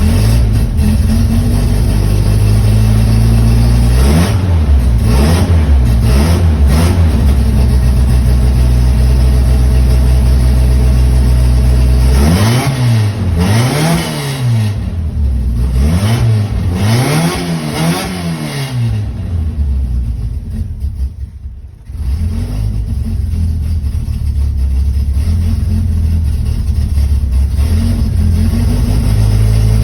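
Toyota 3T-C four-cylinder engine with a 38 Weber carburettor and a small cam, warming up from a cold start and heard from inside the car. It idles steadily, with three short throttle blips a few seconds in and a quicker run of about five blips partway through. Near twenty seconds in the sound sags and weakens for a couple of seconds before settling back to a steady idle.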